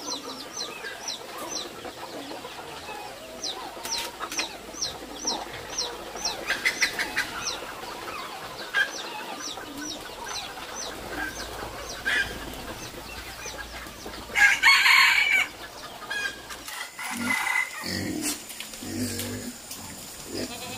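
Chickens calling: a rapid run of high, falling peeps, about three or four a second, then a louder, harsher call about fourteen seconds in, followed by more calling.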